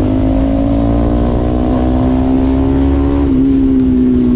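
Bajaj Pulsar NS200's single-cylinder engine running hard at high revs, heard from the rider's seat, its note rising slowly. About three seconds in the pitch drops briefly, then carries on steady.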